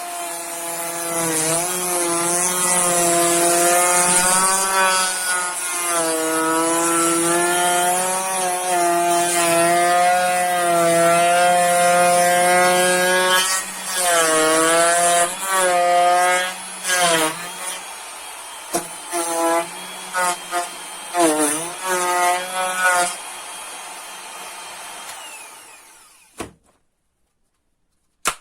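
Interskol MF 40/1000E electric router, fitted with an old bit, routing the edge of a piece of wood: a steady motor whine whose pitch dips and wavers as the bit bites. Near the end come several short cutting passes, then the motor winds down and stops, followed by a sharp click.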